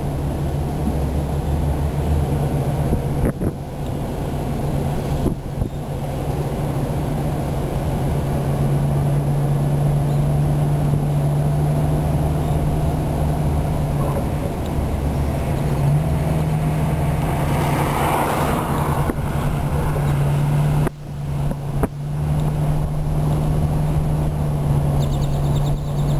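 A vehicle's engine and road noise heard from inside the cab while driving slowly: a steady low drone, with a brief rushing swell about two-thirds of the way through.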